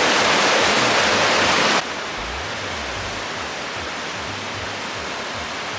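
Steady rush of flowing snow-melt water. A little under two seconds in it drops suddenly to a quieter, duller rush.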